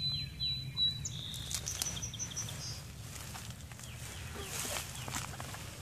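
Songbirds singing: a held high whistle in the first second, then short high chirps until about three seconds in. Underneath runs a low steady hum, with scattered clicks and rustles of footsteps.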